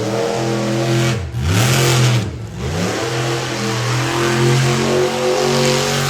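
Monster truck engine revving hard. The revs drop sharply and climb back twice, about a second and two and a half seconds in, then hold high.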